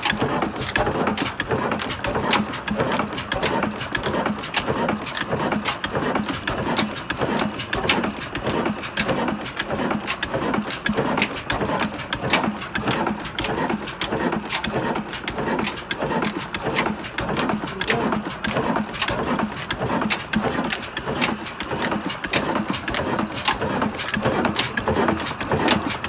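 Heavy old diesel engine running steadily, with a sharp, even knocking beat over its mechanical clatter.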